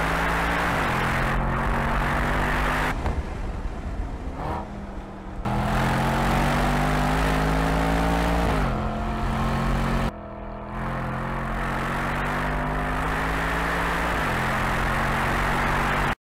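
Mercedes-AMG E63's twin-turbo V8 under hard acceleration on track, its pitch climbing steadily and dropping sharply at each of several upshifts. The sound breaks off between shots a couple of times, and stops suddenly near the end.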